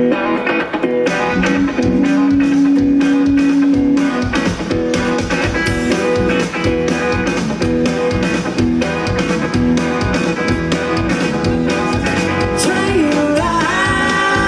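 Live rock-and-roll band playing an instrumental passage: guitar lines over a steady drum beat, with a guitar note bent upward near the end.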